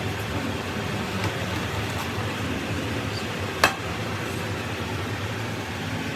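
Steady low hum and hiss of background noise, with one sharp click or tap a little over halfway through.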